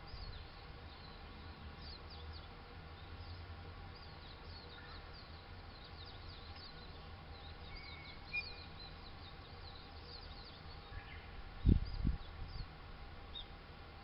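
Small birds chirping, many short high notes falling in pitch, over a faint low rumble. Two low thumps come near the end, the loudest sounds.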